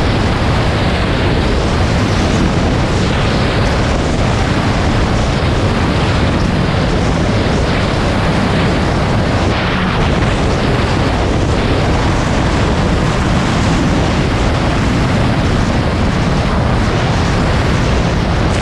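Wind blasting the microphone over the running engine of a 1999 Sea-Doo XPL personal watercraft underway, steady and loud.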